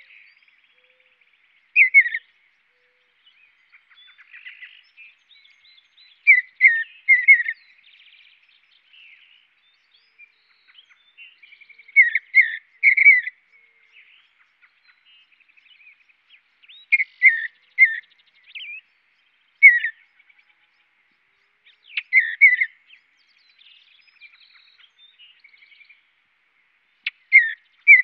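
A bird calling: short falling notes in clusters of two or three, repeated every few seconds.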